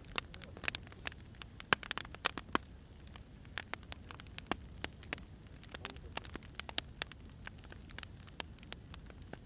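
Firewood burning: irregular sharp crackles and pops, several a second, over a low steady rush of flame.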